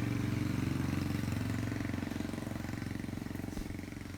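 A small engine or motor running steadily with a low pulsing hum, loudest at first and slowly fading away.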